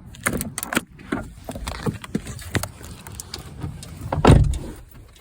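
Car keys jangling and handling knocks, a string of sharp clicks, with one heavy thump a little over four seconds in.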